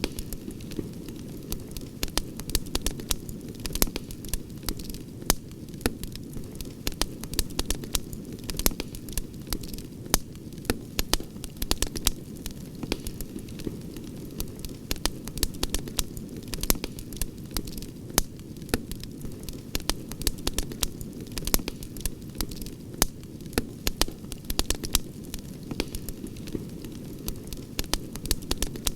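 Campfire crackling, with frequent irregular sharp pops and snaps over a steady low rumble of the burning wood.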